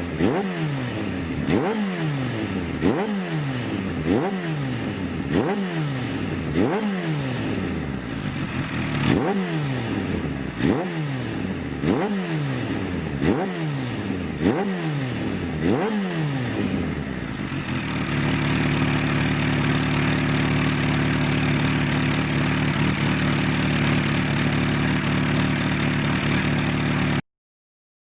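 Kawasaki H2 SX supercharged inline-four engine revved in quick repeated throttle blips, about one every second and a half, each rising sharply and falling back, through an aftermarket exhaust. About eighteen seconds in it settles to a steady idle, which cuts off abruptly near the end.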